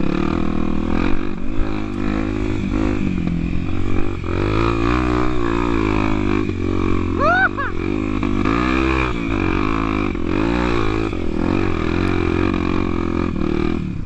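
Honda Tornado 250's single-cylinder four-stroke engine running under way, the revs repeatedly rising and falling as the throttle is worked. A brief high tone rises and falls about seven seconds in.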